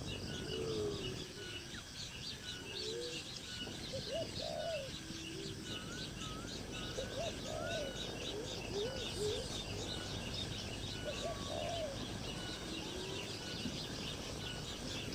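Bird calls: short, low arching calls repeated every second or two, with fainter higher chirps over a steady high background hiss.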